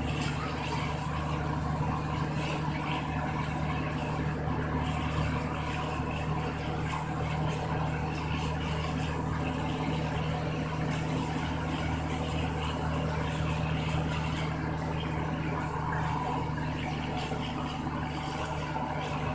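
Truck engine running steadily, a low, even drone.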